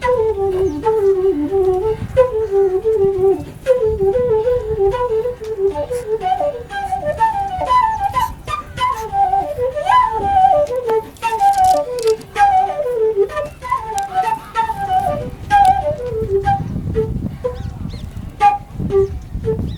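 Background flute music, a quick melody of stepping notes that fades out near the end.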